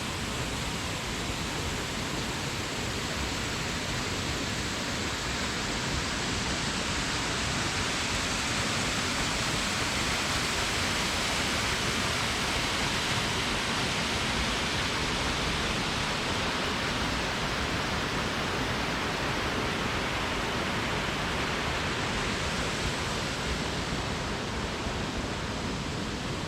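Steady rush of falling water from a waterfall, swelling slightly in the middle.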